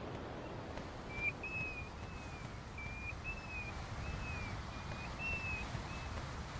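A bird whistling a run of about nine short, clear, high notes, some rising, some falling, some level, about two a second, over a low steady background hiss.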